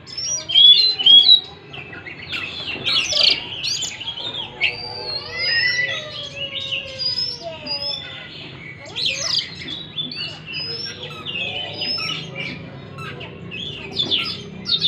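Oriental magpie-robin (kacer) song: a fast, unbroken string of varied whistles, chirps and rising and falling notes, played as a lure song to set silent, stressed magpie-robins singing. A faint steady low hum lies underneath.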